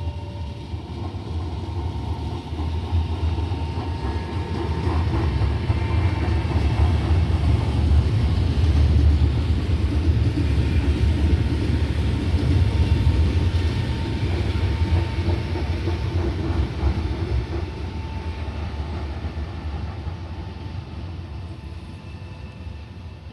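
Train passing on the line: a heavy low rumble that grows louder to a peak about nine to thirteen seconds in, then slowly fades away.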